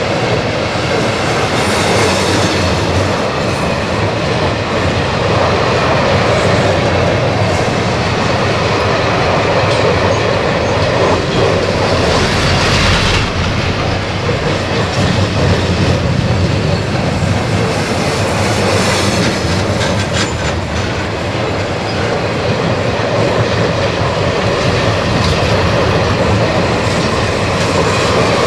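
Freight train of loaded container flat wagons rolling past close by: a loud, steady rumble and rattle of steel wheels on the rails.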